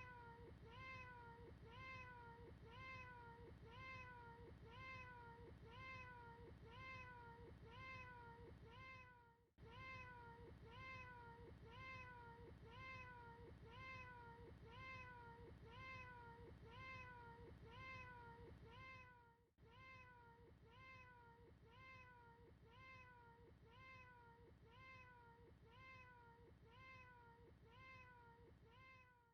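Faint cat meows, short and high, repeated rapidly about twice a second in a looped recording that drops out briefly about every ten seconds.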